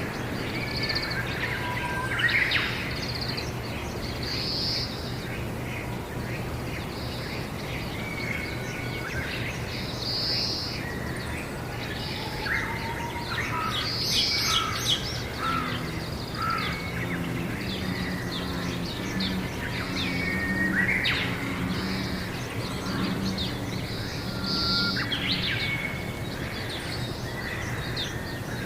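Wild birds calling and chirping, many short calls overlapping throughout, over a steady low hum.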